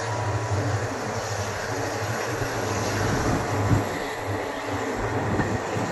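ICF passenger coach running at speed: a steady rumble of wheels on the track, with a single louder knock a little before four seconds in.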